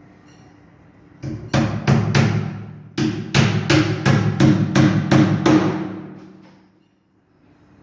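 Hammer striking wood, about a dozen sharp blows at a quick, fairly even pace, dying away near the end.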